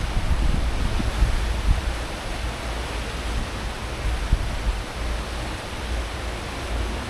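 Churning wake water behind a cruise ship running at full speed, a steady rush of noise over a deep, uneven rumble from the ship's engines and propellers.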